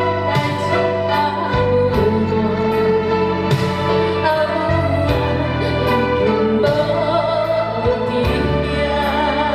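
Chinese traditional orchestra playing a slow, sustained melody with a vocalist singing. The notes waver with vibrato over steady low bass notes.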